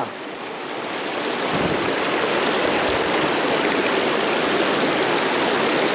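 Fast-flowing river water rushing steadily, a constant hiss-like wash of current.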